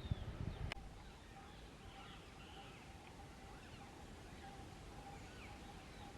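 Faint chirps and calls of several birds, with a steady faint tone underneath. A low rumble at the start ends in a sharp click under a second in.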